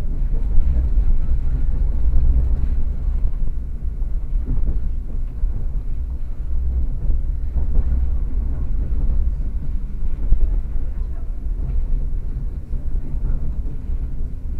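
Moving train heard from inside the carriage: a steady low rumble from the running gear on the rails, with a few irregular knocks.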